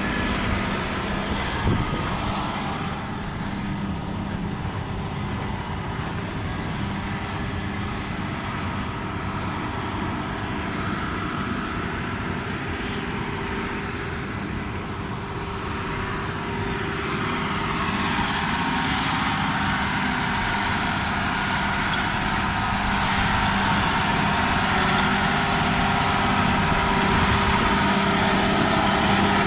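John Deere 6155R tractor's six-cylinder diesel running steadily while pulling a Vermeer 404 Pro round baler through a hay windrow, growing louder from about 17 seconds in. A single short knock about two seconds in.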